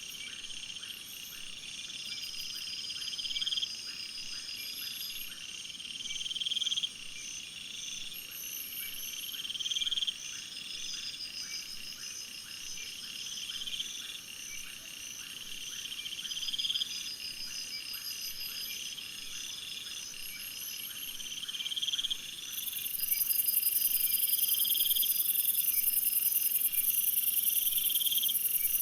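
Chorus of insects chirring: a call that swells and stops about every three seconds, with a loud, very high buzz taking over for the last six seconds.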